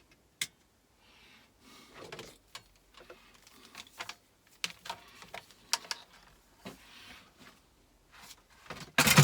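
Scattered clicks, taps and knocks of tools and metal parts being handled and set down, ending in a loud double clatter.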